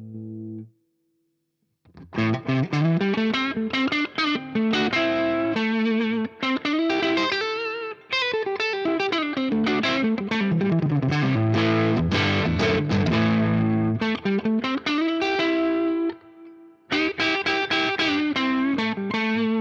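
Electric guitar played through a Fender Blues Junior IV 15-watt tube amp, captured through a reactive load and a 4x12 Vintage 30 cabinet impulse response. A held chord dies away in the first second. After a short silence, fast single-note runs climb and fall, pause briefly near the end, and then start again.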